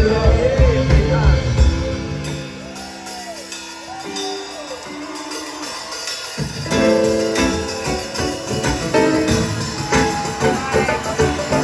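A live band plays with a singing voice. About two seconds in, the drums and bass drop out, leaving held chords and a few sung phrases. The full band with drums comes back in about six seconds in.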